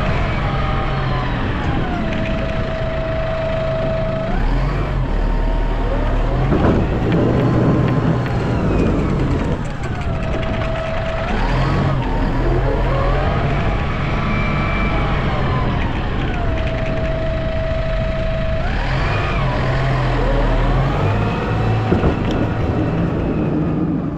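Snow-plow vehicle's engine and drivetrain whine, rising and falling in pitch again and again, with steady stretches between, as the vehicle works back and forth.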